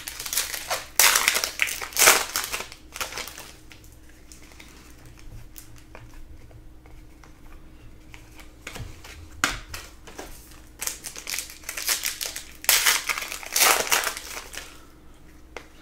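Panini Prizm basketball card pack wrappers being torn open and crinkled, in bursts about a second in and again from about eleven to fourteen seconds, with quieter handling of cards in between.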